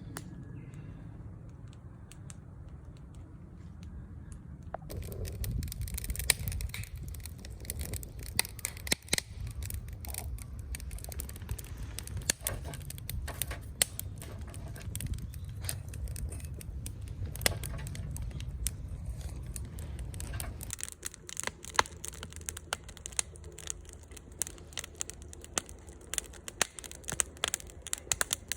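Small twig fire crackling and popping in a Kelly Kettle or hobo stove, with many irregular sharp snaps. A low steady rumble lies under it until about 20 seconds in, after which the crackles stand out sharper and brighter.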